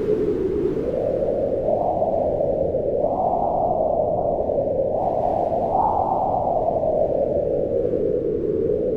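Wind howling in slow gusts: a low, steady rush whose pitch rises and falls every couple of seconds, swelling highest around the middle.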